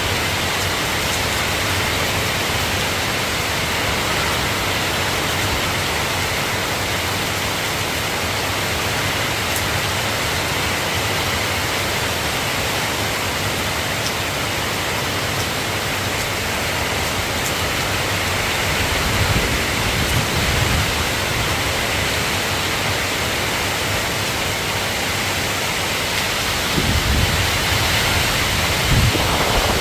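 Steady rain falling, an even hiss. Low rumbles swell briefly twice, about two-thirds of the way in and near the end.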